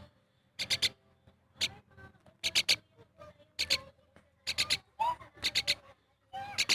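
Pet myna chirping: short, high calls in quick clusters of two or three, repeated about once a second.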